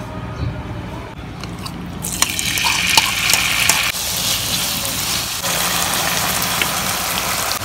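Diced chicken sizzling as it fries in hot oil in a pan. The sizzle starts suddenly about two seconds in and is loudest for the next two seconds, with light clicks and scrapes from a spatula stirring the pieces.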